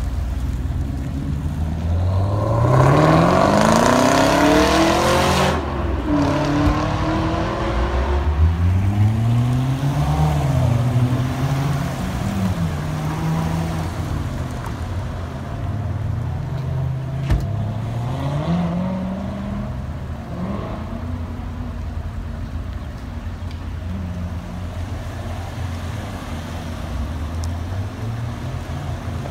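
Chevrolet Camaro V8 accelerating hard, its engine note climbing steeply through the revs a couple of seconds in, the loudest part. Then Chevrolet Corvette V8s pull away, engine notes rising and dropping through gear changes, settling into a steadier engine sound.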